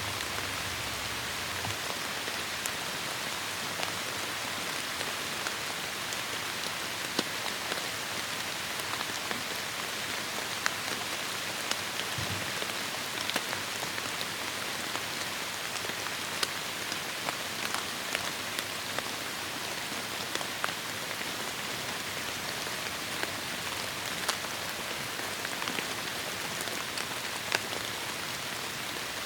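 Heavy rain falling steadily on forest foliage: a dense, even hiss with scattered sharp ticks of individual drops landing close by.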